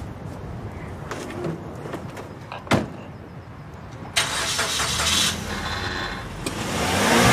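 A single thud, then a car engine starts about four seconds in and runs, beginning to rev up near the end.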